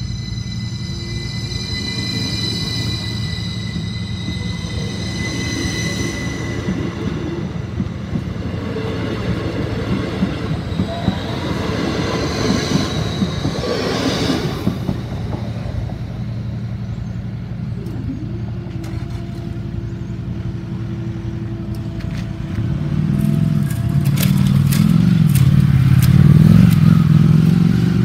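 Class 333 electric multiple unit passing over a level crossing: a steady rumble with wheel clatter that builds to a peak and fades as the train clears. High steady tones fade away over the first several seconds. A louder low rumble with sharp clicks comes near the end.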